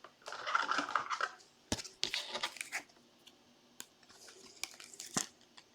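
Trading cards and rigid plastic toploaders being handled, as cards are slid into toploaders: scattered light clicks, scrapes and short rustles, with a longer rustle near the start.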